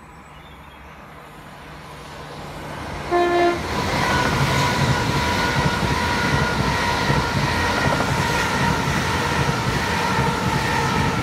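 High-speed passenger train approaching and passing close by. It gives one short horn toot about three seconds in, then runs by loudly with a steady whine of several tones over the wheel and rail noise.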